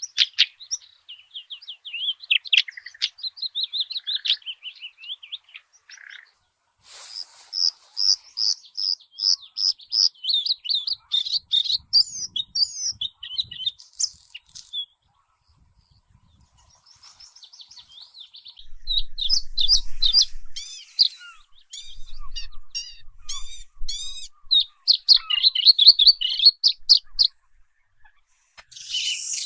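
Songbirds singing: rapid, high chirping and trilling phrases in three long bouts with short pauses between them.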